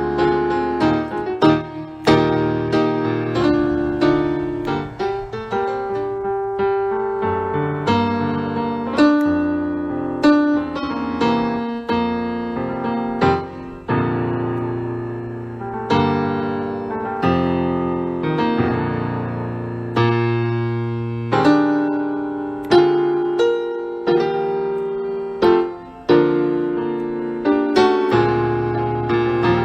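Piano music: slow chords and melody notes struck and left to ring and fade.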